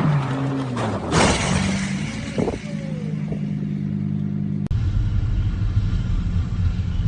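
Car engine sounds: an engine's pitch falls away, a sudden loud noise comes about a second in, then a steady engine note. About two-thirds through, the sound cuts abruptly to a steady low road rumble.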